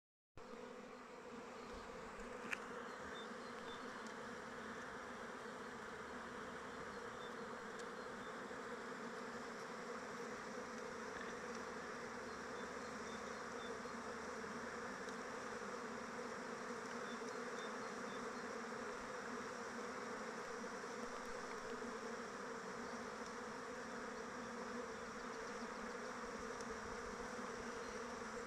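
Swarm of honeybees flying around their hive, a steady dense buzzing hum of many wingbeats. A single brief click sounds about two and a half seconds in.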